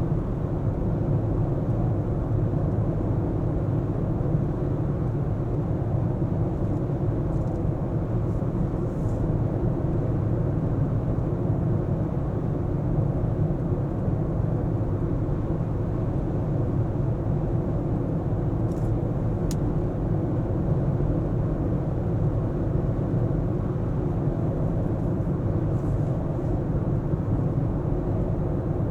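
A car driving on city roads: a steady low rumble of engine and tyre noise that holds even throughout.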